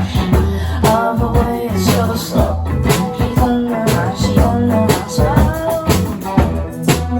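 A live indie rock band playing a passage with no sung words: drums keep a steady beat over the bass, with a wavering melodic line on top.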